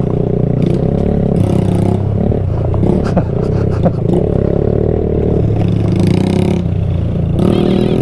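Single-cylinder 125cc mini bike engine running on a dirt trail, the throttle opening and closing as it rides. A cluster of sharp clattering knocks comes about three to four seconds in.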